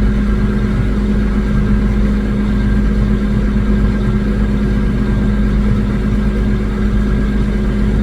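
Engine of a 1980-era self-propelled swather running at steady speed: a loud, constant drone with a low rumble and an unchanging hum.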